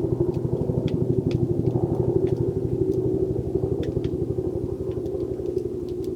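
An engine running steadily at idle with a fast, even throb, easing off slightly toward the end, with short high ticks scattered over it.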